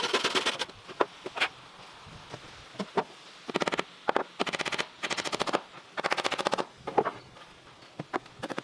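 Bursts of fast rasping from a hand tool working bamboo or wood, each lasting about half a second to a second, with a few sharp knocks in between.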